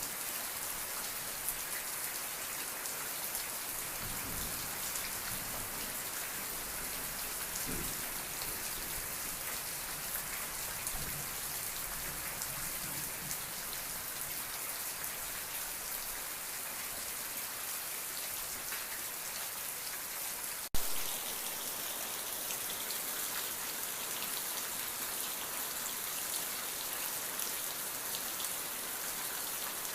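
Steady rain falling, an even hiss of drops on a surface, with faint low rumbles in the first half. A single sharp click about two-thirds through, after which the rain's texture shifts slightly, as at a splice in the recording.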